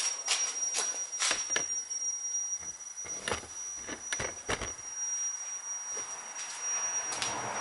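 Irregular clinks and knocks of hand tools on metal, a dozen or so spread unevenly, over a steady high-pitched whine.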